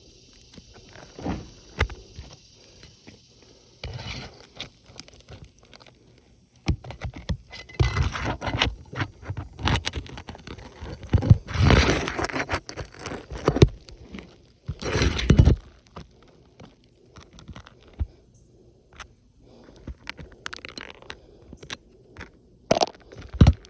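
Tools scraping, crunching and tearing at asphalt shingles during a roof repair, in irregular bursts, with a couple of sharp knocks near the end.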